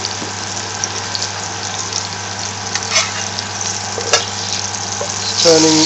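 Lamb-mince shami kebab patties sizzling steadily as they shallow-fry in a little vegetable oil in a pan. A couple of sharp clicks come near the end as a spatula goes under one patty to turn it.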